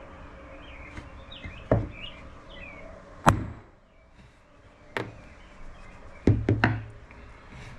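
Hammer striking a steel letter punch to stamp a letter into a machined metal piece: six sharp metallic blows, one by one and then three in quick succession near the end. The blows are too light for a good mark, and something heavier is called for. Birds chirp faintly in the background.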